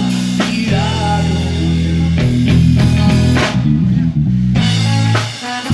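Live rock band playing an instrumental passage between sung lines: electric guitar and bass guitar over a drum kit, with the bass notes moving in a steady groove.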